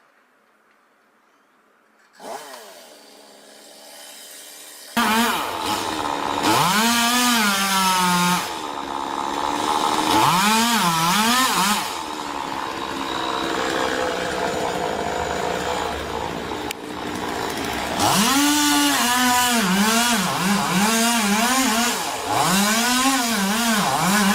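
Gas chainsaw running and being revved up and down over and over, its pitch rising and falling with each rev. It comes in quietly about two seconds in and gets much louder about five seconds in.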